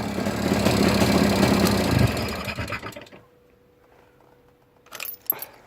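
Jawa 350 motorcycle engine running, then shut off about two seconds in and running down to a stop, followed by a few light clicks near the end.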